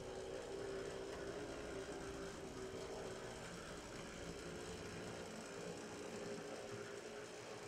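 HO-scale brass model of a New York Central 4-8-2 Mohawk steam locomotive running along the track. Its open-frame motor and gears give a steady whir with a slightly wavering tone, and the model is noted for some gear noise.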